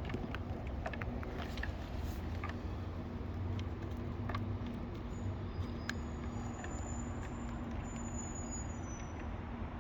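Steady low drone of distant road traffic, with a few light ticks and faint thin high whistles in the second half.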